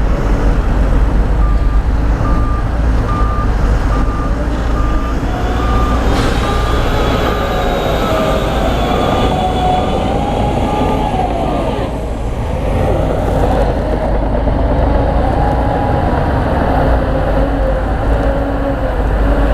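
Heavy diesel earthmoving machinery running under load, its engine pitch rising and falling, while a reversing alarm beeps steadily at about one and a half beeps a second, stopping about twelve seconds in.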